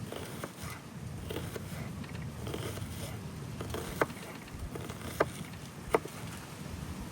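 Campfire crackling, with three sharp pops near the end, over a steady low rumble.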